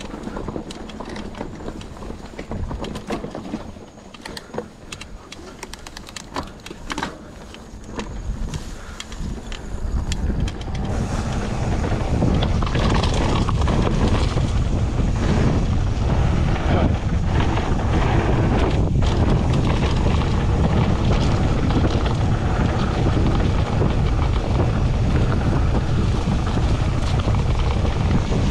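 Mountain bike riding a dirt trail: scattered clicks and rattles of the bike over rough ground, then from about eleven seconds in, loud steady wind noise on the microphone covers everything.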